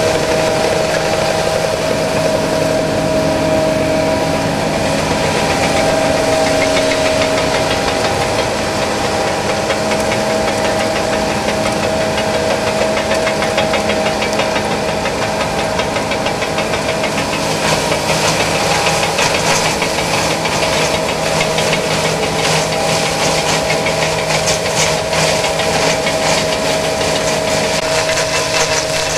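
John Deere S660i combine harvester running steadily while harvesting rice, a steady whine over the engine noise. A fast, even ticking rattle joins in a little past halfway.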